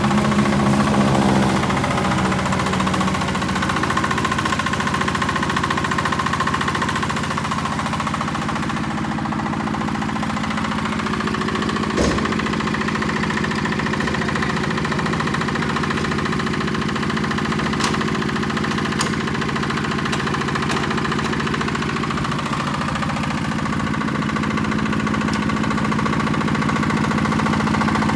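Yanmar YA80 hand tractor's single-cylinder NFD8 diesel engine running steadily, with one sharp knock about twelve seconds in.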